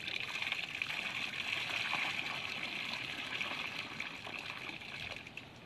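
Water trickling and running in a steady stream, fading away near the end.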